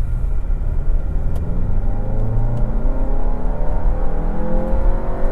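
Volkswagen Tiguan's 2-litre TSI turbocharged four-cylinder petrol engine under hard acceleration, its revs climbing steadily through the gear from about a second and a half in.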